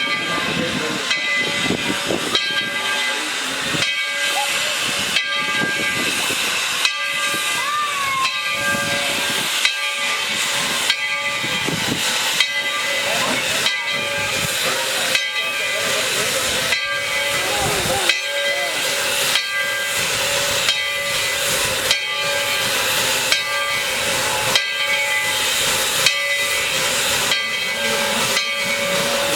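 Steam locomotive No. 12 hissing steam steadily, with a sharp, regular beat about once a second.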